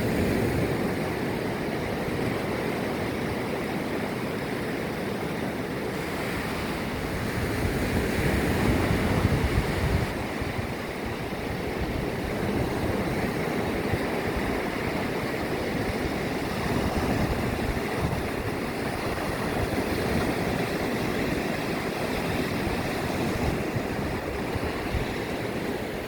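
Baltic Sea surf washing steadily onto the shore, swelling a little about a third of the way through, with wind on the microphone.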